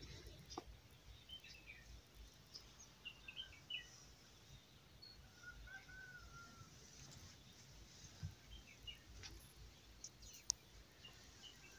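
Faint, scattered bird chirps and calls over quiet background noise, with one sharp click near the end.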